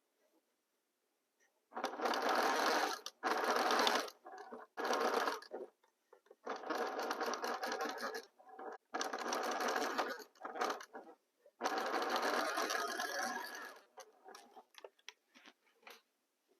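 Sewing machine stitching in short runs, starting and stopping about six times as the rows of a patchwork quilt block are sewn together, with a few light clicks near the end.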